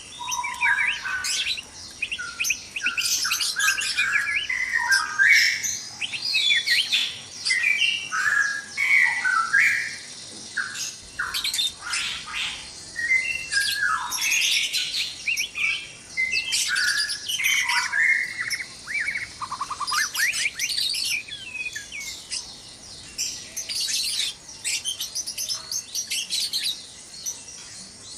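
White-rumped shamas (murai batu) calling noisily: a dense, nearly unbroken stream of varied whistles, chirps and harsh squawks.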